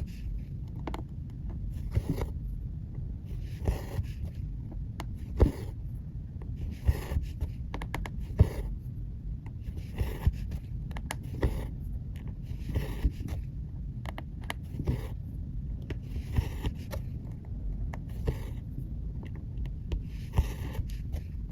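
Cross-stitch needle and embroidery floss being drawn through fabric: a short, soft swish of thread about every second and a half, with small sharp clicks of the needle between them.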